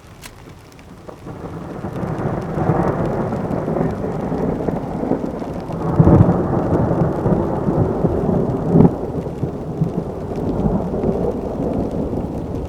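Thunder rolling: a long low rumble that builds about a second in and swells twice, around the middle and again a few seconds later.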